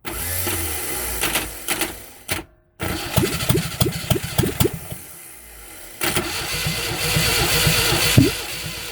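Air-cooled V4 engine from a ZAZ-968M Zaporozhets, long unused, starting and running unevenly with irregular firing strikes. It gets louder again about six seconds in.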